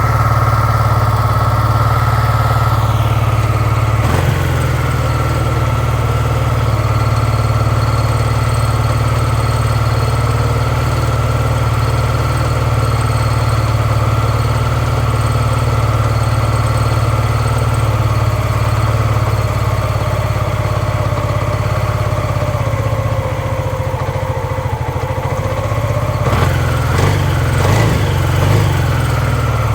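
2007 Hyosung GV650 Aquila's V-twin engine idling steadily on choke just after a cold start. Its note wavers briefly a couple of times near the end.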